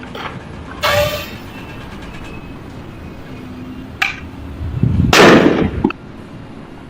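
Impacts on a construction job: a clang with a brief ringing tone about a second in, a sharp knock near four seconds, then the loudest, a heavy bang lasting about a second, over steady background noise.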